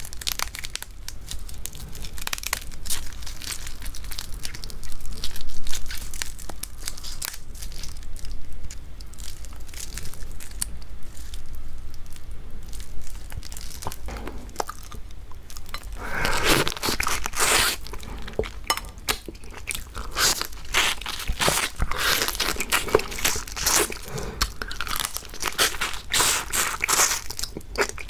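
Close-miked eating of raw marinated crab: crunching and biting through the shell, with chewing. The crunching grows louder and denser about halfway through.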